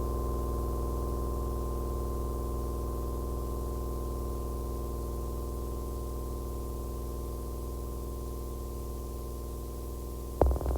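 Electronic noise drone from an IDM/noise track: a steady hum of many held tones with a thin, high tone on top and a heavy bass underneath. A sharp click cuts in near the end.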